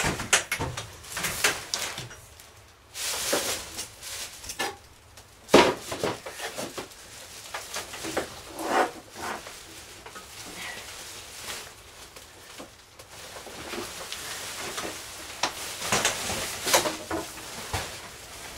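Irregular knocks, taps and clatter of hard objects being handled, some louder than others, with brief faint sounds between them.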